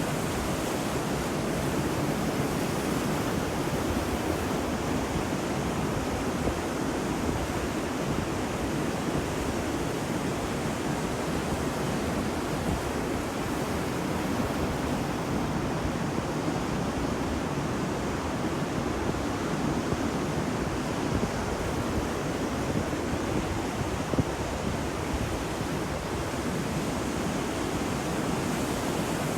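Ocean waves breaking on a beach: a steady, even wash of surf with no distinct single breakers.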